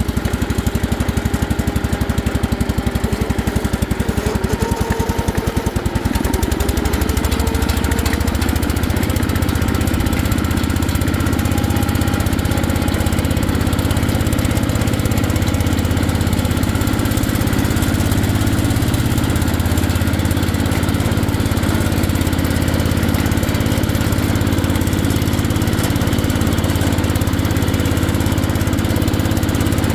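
1970 White Town & Country 112 Hydro garden tractor's engine running steadily, just brought back to life after a new head, head gasket and points. About six seconds in its note rises, then it holds steady.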